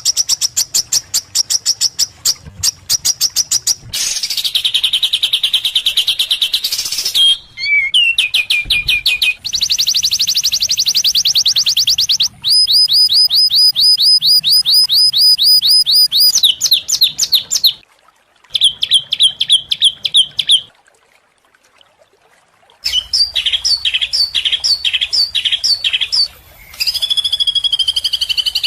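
Recorded songbird song spliced into a 'masteran' training mix: loud, rapid high-pitched chirps and trills from several different birds, each song type cut abruptly into the next every few seconds. The song stops briefly about two-thirds of the way through, then resumes.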